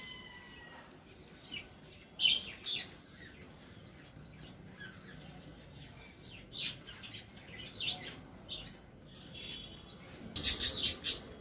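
Birds chirping in short, high, scattered calls, with a quick run of sharp chirps about ten seconds in.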